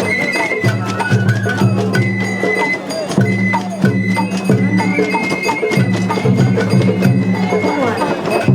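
Sawara-bayashi festival music from a float's band: a bamboo flute playing long held high notes over steady taiko drum strokes and clacking percussion.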